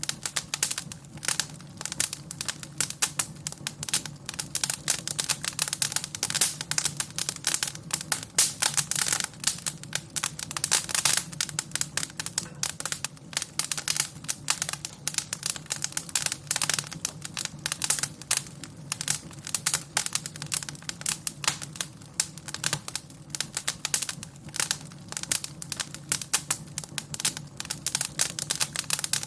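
Wood fire in a fireplace crackling and popping, with dense, irregular snaps throughout and a low steady hum underneath.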